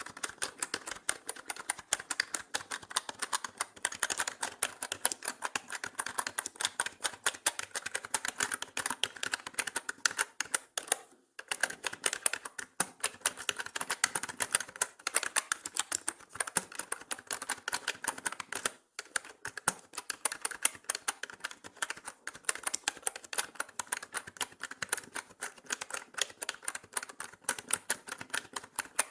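Mechanical keyboard being typed on steadily: rapid, dense key clicks and clacks, with brief pauses about 11 and 19 seconds in.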